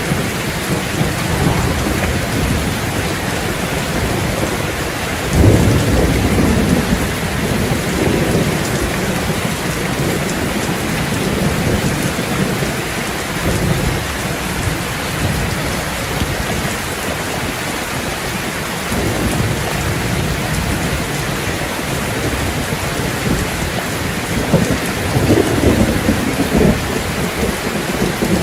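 Rain falling steadily, with rolling thunder: a sudden, loud rumble about five seconds in and further rumbles later, the last near the end.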